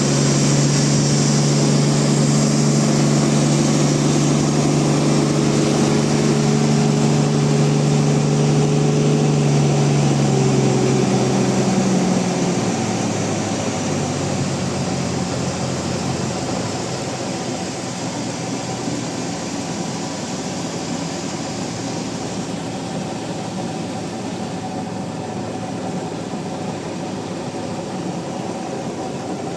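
Band sawmill machinery running steadily, with a strong low hum that fades out about twelve seconds in, leaving a quieter steady running noise.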